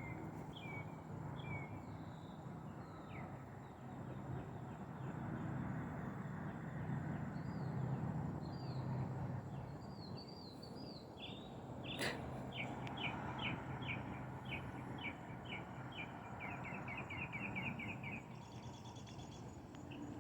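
Wild birds chirping over a low, steady outdoor background rumble: scattered short chirps at first, then a quickening run of rapid chirps in the second half. There is one sharp click about twelve seconds in.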